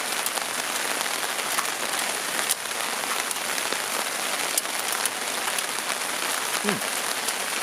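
Steady rain falling on a nylon tarp overhead, an even hiss with many individual drops ticking.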